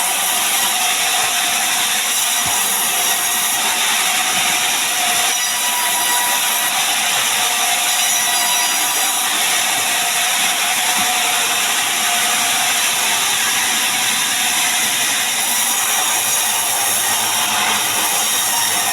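Power saw steadily cutting through mahogany timber, a continuous hissing cut with no pauses.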